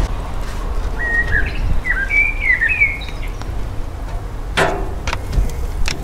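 A small songbird singing a short phrase of whistled notes that rise and fall, starting about a second in and lasting about two seconds. Near the end comes a brief clatter and a few sharp clicks of metal tongs on the barbecue grill grate.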